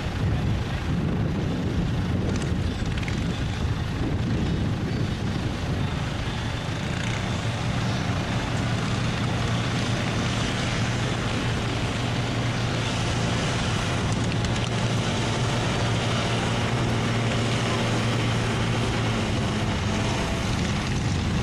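Diesel truck engine running steadily at a low, even speed, with no revving up.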